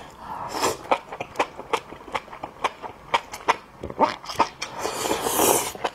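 Close-miked chewing of sauce-coated enoki mushrooms: a steady run of crisp, wet mouth clicks, about three or four a second. A sucking slurp comes about half a second in and a longer one near the end.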